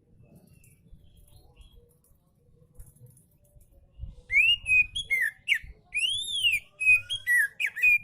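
Oriental magpie-robin singing: after a few faint chips, a loud run of clear whistled notes begins about halfway through, some swooping up and down in arches, others sliding or held briefly.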